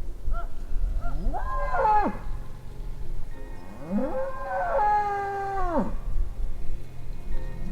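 Cow mooing twice: a short moo, then a longer one about two seconds later, each rising in pitch, holding, and dropping off at the end.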